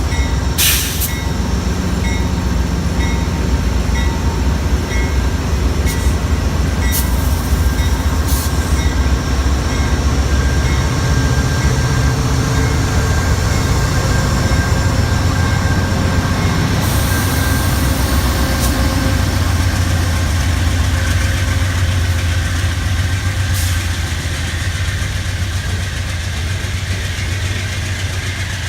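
A train running steadily with a loud low rumble, with a few sharp clicks and knocks along the way.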